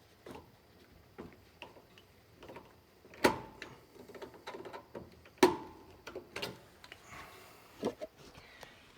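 Small metal parts being handled while a BX cable connector and lock nut are fitted: scattered light clicks and taps, with two sharper metallic clinks that ring briefly, about three and five seconds in.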